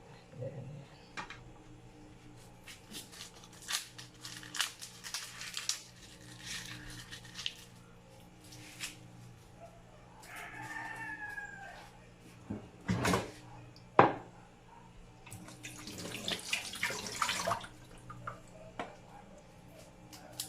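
Kitchen preparation noises: scattered clicks, two stretches of rustling and scraping, and two sharp knocks, the second the loudest, over a steady low hum. A rooster crows once in the background about halfway through.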